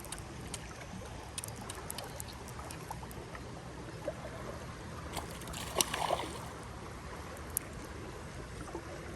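Creek water running steadily with rain falling, scattered small taps through it and a brief louder sound about six seconds in.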